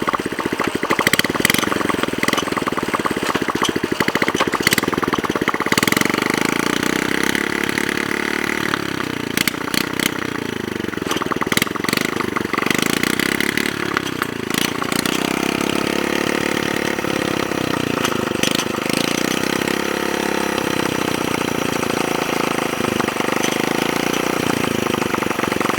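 Small motorcycle engine of a fat-tyre Honda Chaly custom running, its pitch rising and falling several times as the throttle is opened and closed, with scattered sharp clicks and knocks.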